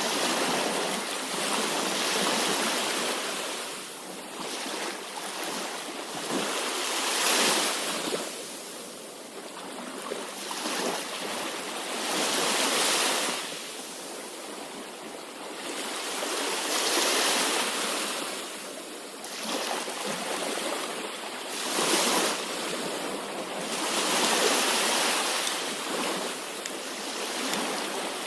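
Ocean waves breaking and washing on a shore, the surf swelling and fading every few seconds.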